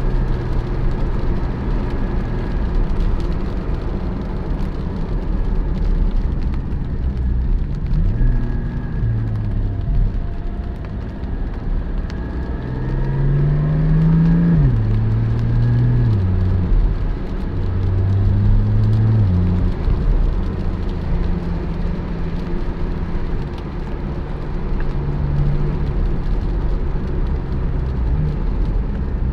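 Porsche 718 Spyder's 4.0-litre flat-six engine under way, its pitch climbing under acceleration and dropping at gear changes several times in the middle, over a steady road and tyre rumble.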